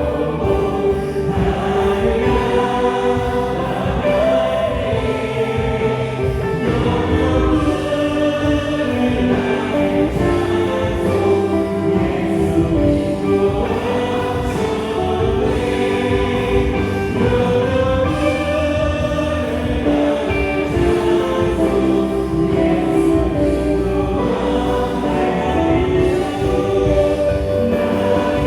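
Worship band and group of singers performing a gospel praise song: voices singing together over drums, bass guitar, electric guitar and keyboard.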